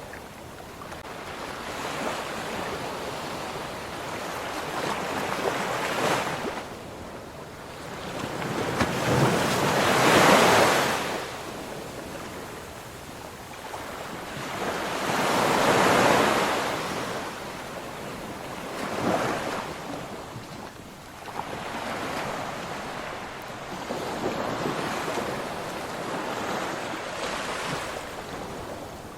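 Ocean surf: waves breaking and washing ashore in slow swells, each surge rising and falling over a few seconds, the strongest about a third of the way in and again past the middle.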